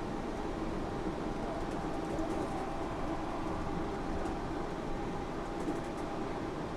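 Cabin noise of a Yurikamome driverless rubber-tyred train running between stations: a steady rumble with a faint even hum.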